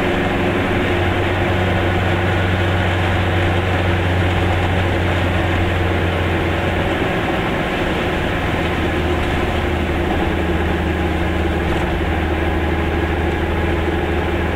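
A vehicle's engine running steadily while driving, heard from inside the cabin: a low, even drone with road noise, the deepest part weakening briefly about seven seconds in.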